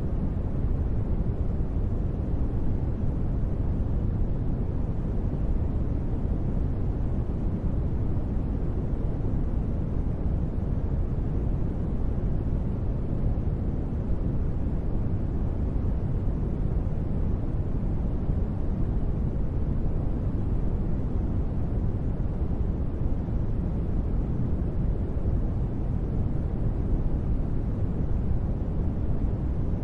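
Steady, unchanging noise with most of its weight in the bass and little hiss: a synthesized deep-space ambience noise bed, a low rumble with no events in it.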